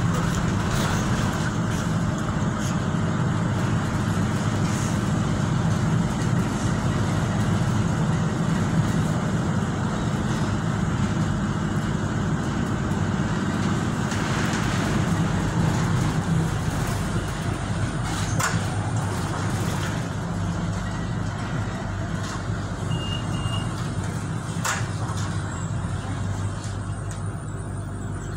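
Tyne and Wear Metro train running, heard from inside the carriage: a steady low rumble of wheels on the rails. Two sharp clicks come in the second half, and the noise grows somewhat quieter near the end.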